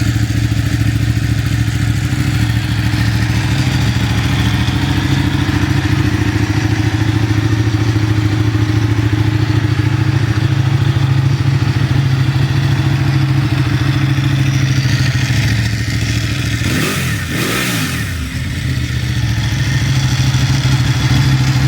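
Ducati 899 Panigale's Superquadro L-twin idling steadily, with one quick throttle blip about seventeen seconds in, the pitch rising and dropping straight back to idle.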